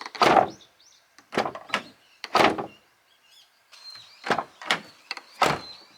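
Abarth 500-series car door being opened and shut, three solid shuts with lighter latch and handle clicks between them. It shuts without a rattle, now that the loose vibration absorber inside the door has been taped in place.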